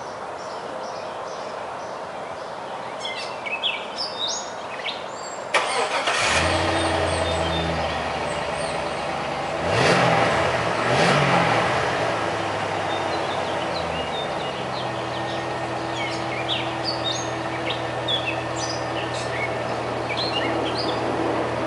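Birds chirping, then a 2002 Chevy Silverado's 5.3-litre V8 cranks and starts about five seconds in and runs at a fast idle. Its pitch rises and falls twice as it is revved, then settles to a steady, lower idle. It runs pretty quietly through the stock exhaust with its long factory muffler.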